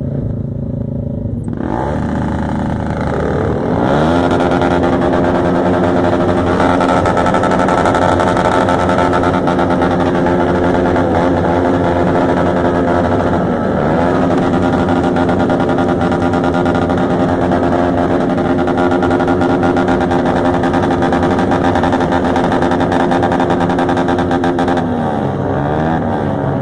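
Motorcycle engine revved up over the first few seconds, held at high revs for about twenty seconds with a brief dip in the middle, then dropping back down near the end.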